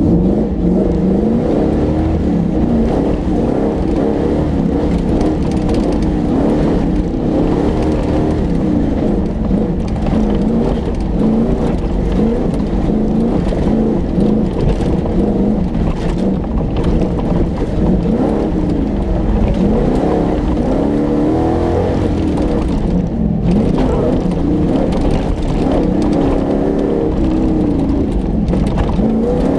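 Off-road rally car's engine revving hard, its pitch climbing and dropping again and again with throttle and gear changes, heard close from the bonnet. Water splashes over the bonnet about halfway through.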